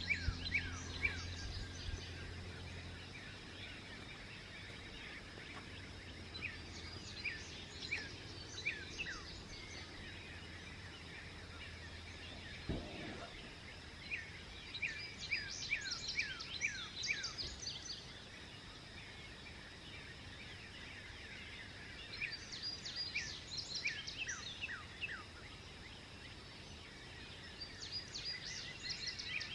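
Songbirds singing a dawn chorus: recurring bursts of quick, downward-sweeping chirps over a steady background hiss. A low hum underneath stops about thirteen seconds in.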